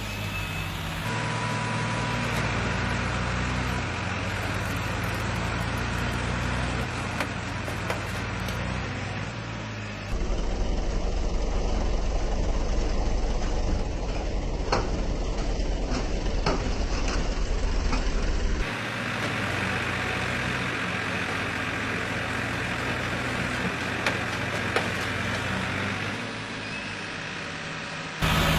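Diesel engines of two farm tractors, a Massey Ferguson and a Farmtrac, running in a tug of war. From about 10 s to 18 s they get louder with a heavy low rumble as they pull hard under load against each other, with a few sharp cracks in between. Then they settle back to a lower running sound.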